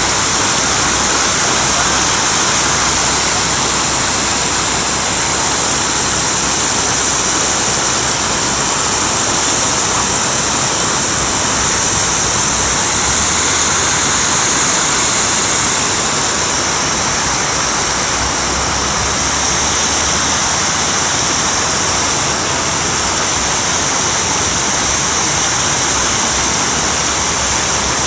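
Water pouring over a reservoir spillway in a steady, loud rush: the reservoir is full and overflowing.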